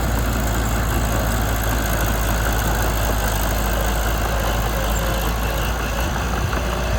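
Mitsubishi BD2 bulldozer's diesel engine running steadily with a deep low rumble.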